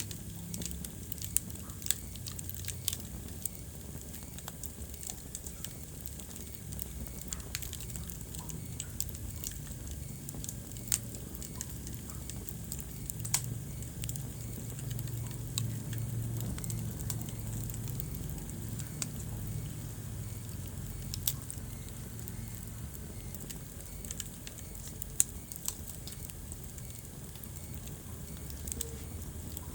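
Wood fire burning in a fireplace: a steady low rumble of the flames with irregular sharp crackles and pops, a few of them much louder.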